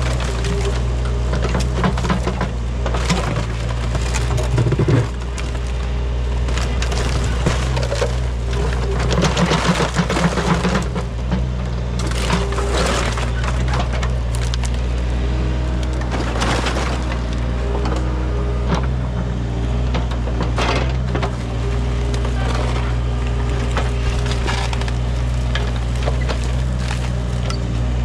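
Excavator engine running steadily while its bucket digs into buried debris, with repeated cracking, crunching and clanking as wood and junk break apart.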